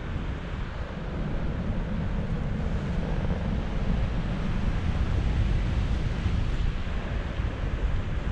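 Steady wind rush buffeting the microphone in paraglider flight, a rumbling, fluttering airflow noise.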